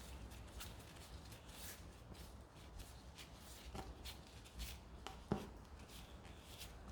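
A screwdriver working a screw out of a car tyre's tread: faint scraping and rubbing of metal against rubber, with light clicks and one sharp click about five seconds in.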